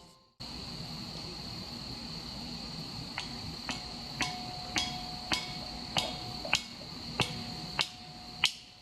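Crickets trilling steadily on one high pitch. From about three seconds in, sharp knocks repeat roughly twice a second, some leaving a short ring.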